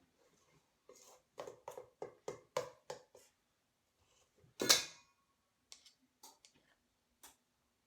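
Kitchen utensils knocking while biscuit dough is portioned onto a baking pan: a quick run of light knocks and taps, then one louder metallic clatter with a brief ring about five seconds in, followed by a few light clicks.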